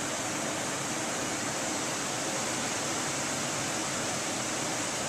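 A flooded brook's water rushing in a steady, even hiss: the stream is running high enough to cover its stone bridge.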